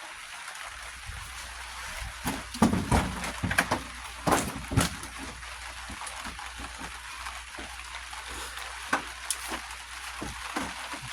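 Scattered clanks and knocks of hand tools and metal parts being handled, most of them in a cluster about two to five seconds in, over a steady low hum.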